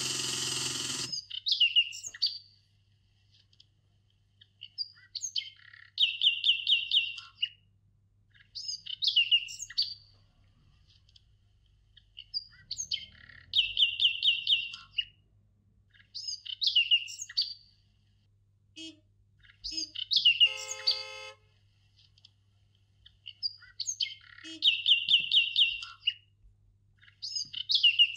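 A songbird singing the same short phrase over and over, about every three to four seconds: high down-slurred notes followed by a quick trill of five or six notes. A brief burst of noise fills the first second.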